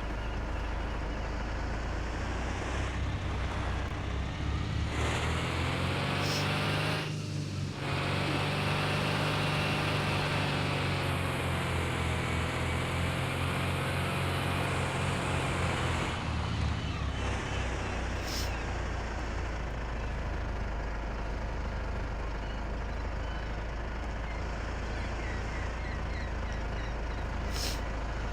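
A truck engine running under load, its pitch slowly rising and falling for about fourteen seconds, with a brief break about seven seconds in. It then settles into a steady, even running noise.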